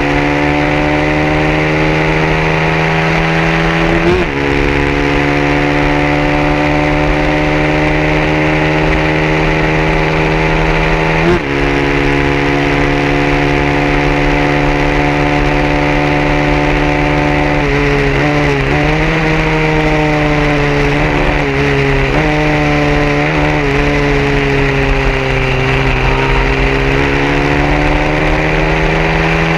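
A 150cc racing motorcycle engine running hard at high revs, its pitch climbing slowly through each gear with sharp drops at upshifts about 4 and 11 seconds in. From about 18 to 26 seconds the pitch wavers and sags as the throttle eases, then it climbs again near the end.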